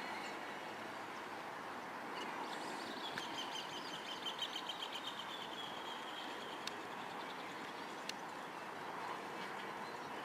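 A bird calling in a rapid trill for about three seconds, a couple of seconds in, over steady outdoor background noise, with two short clicks later on.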